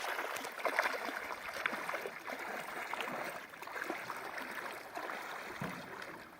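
Shallow river current flowing and rippling, an even watery hiss with small scattered splashes.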